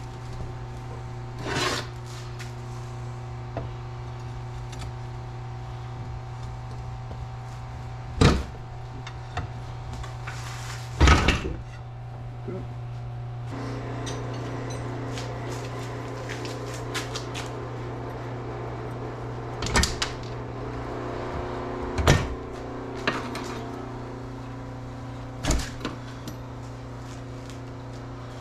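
Metal parts of a rammer's lower end being handled and taken apart on a bench: about six sharp clunks and several lighter clicks over a steady low hum, with a second steady hum joining about halfway.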